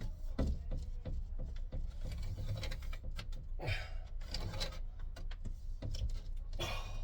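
Irregular knocks and scrapes of OSB boards being pushed and shuffled into place against the ceiling, with a couple of longer scraping rubs around the middle and near the end.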